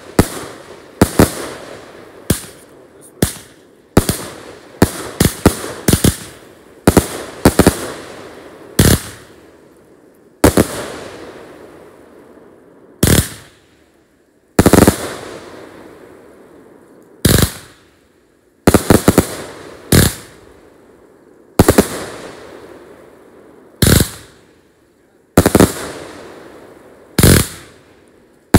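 Aerial fireworks launching and bursting overhead: about twenty-five sharp bangs, each trailing off in an echo. They come in a rapid string, some in quick pairs, for the first nine seconds or so, then one every couple of seconds.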